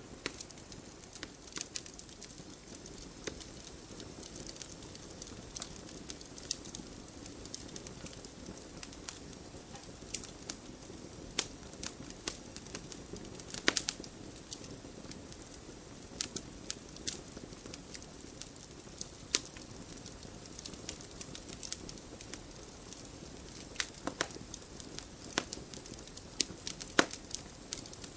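Wood fire burning in a fireplace: a low steady hiss with irregular sharp crackles and pops, a few louder pops among them.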